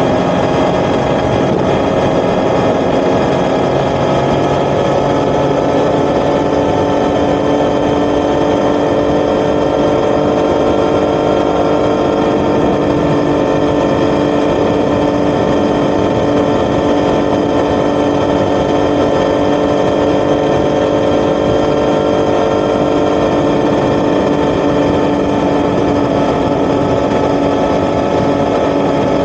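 Yamaha XSR900's CP3 inline three-cylinder engine running through an Akrapovic titanium exhaust, held at fairly steady revs while riding, its pitch drifting only slightly, with road and wind noise underneath.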